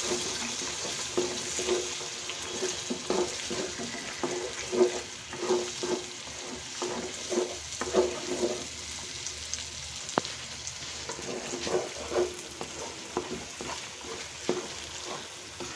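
Eggs and potato masala sizzling in oil in a non-stick wok while a spatula stirs and scrapes through them, breaking up the raw eggs to fry them into the curry. The strokes come about twice a second, then thin out after about nine seconds.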